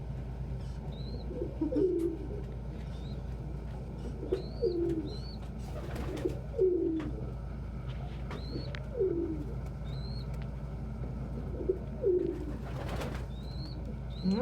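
Pigeons cooing in a loft: low falling coos every couple of seconds, with short high chirps in between. There are two brief rustles, one midway and one near the end, over a steady low hum.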